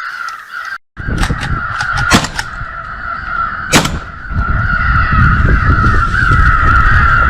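Crows cawing over and over, with two sharp cracks, one about two seconds in and one near four seconds. Wind rumbles on the microphone, stronger in the second half.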